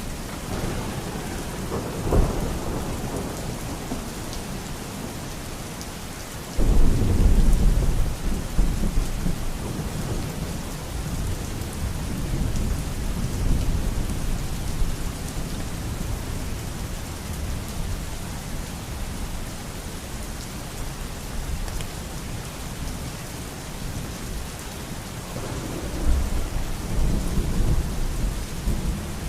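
Steady rain with rolling thunder: a short rumble about two seconds in, a sudden loud clap near seven seconds that rumbles on for several seconds, and another rumble near the end.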